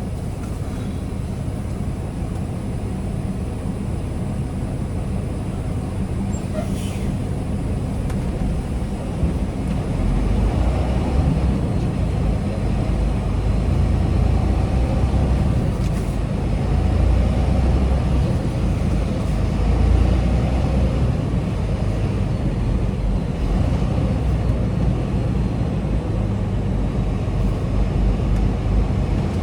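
Semi-truck diesel engine running as the tractor-trailer pulls out, with a steady low drone that gets louder about ten seconds in.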